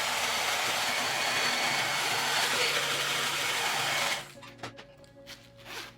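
Hair dryer blowing with a steady rushing hiss, heating candle wax rubbed onto zipper teeth so it melts in; it switches off about four seconds in.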